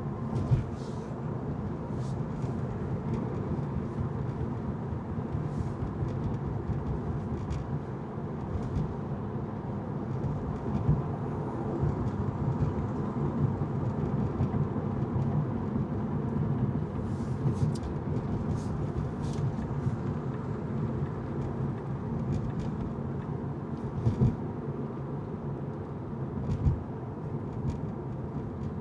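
Car driving on city streets: steady road and engine noise with a low rumble, and scattered short clicks or knocks.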